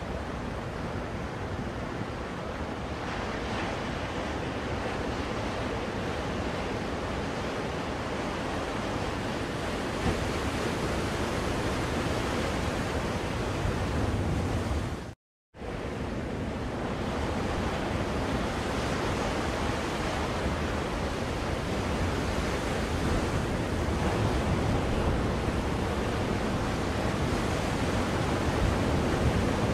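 Recorded ocean surf used as white noise: a steady wash of waves. It cuts out for a split second about halfway through, then resumes.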